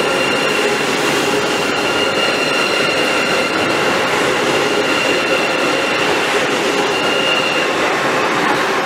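High-speed electric train moving slowly alongside a station platform: a steady rushing rumble of the cars with a thin high whine held over it, fading about eight seconds in as a lower tone takes over.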